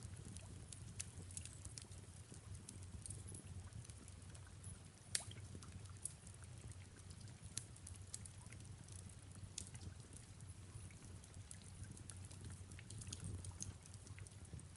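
Faint fireplace crackling: scattered small pops and ticks over a low steady rumble, with one sharper pop about five seconds in.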